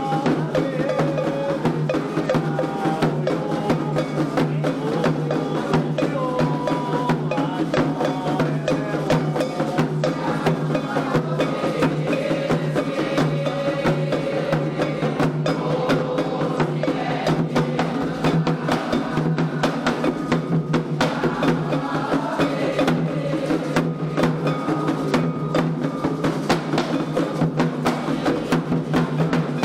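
Candomblé xirê music: hand drums and a sharp, clicking time-keeping percussion play a fast, dense rhythm without a break, with voices singing over it.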